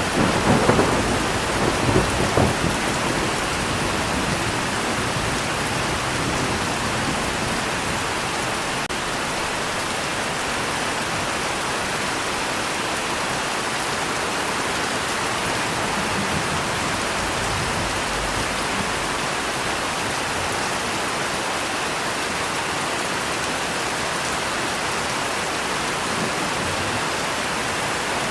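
Steady rain falling, with a crackling rumble of thunder in the first couple of seconds that then fades under the rain.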